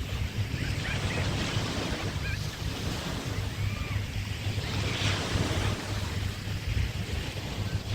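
Small bay waves washing onto the beach, swelling in surges a few seconds apart, with wind rumbling on the microphone.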